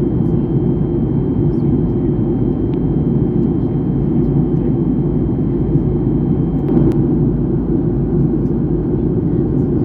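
Jet airliner cabin noise heard from a passenger seat in flight: a steady, low rush of engines and airflow. There is a brief click about seven seconds in.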